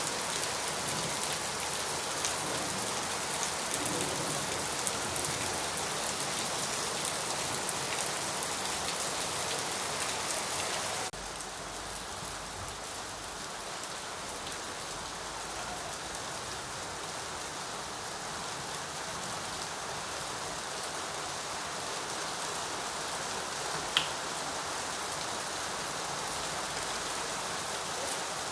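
Steady rain falling: an even hiss of many drops. About a third of the way in it switches abruptly to a softer, duller rain sound, and near the end a single sharp tick stands out.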